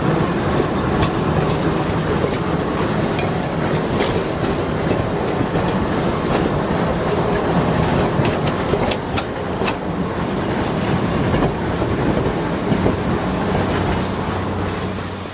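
Geared steam train rolling past, with a steady rumble and irregular clicking of wheels over rail joints.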